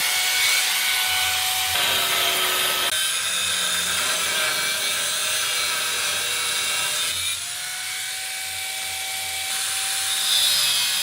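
Power tools running in a workshop: a steady high motor whine over dense grinding and cutting noise. The sound changes abruptly several times, about 2, 3, 7 and 9 seconds in.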